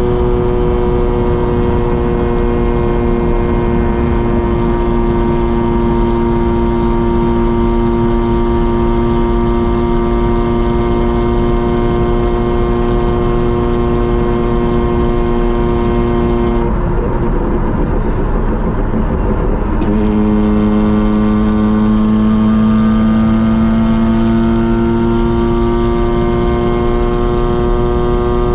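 Mazda RX-7's rotary engine and exhaust while driving, holding a steady even note. A little past halfway the note breaks up for about three seconds, then comes back and slowly climbs in pitch as the car speeds up.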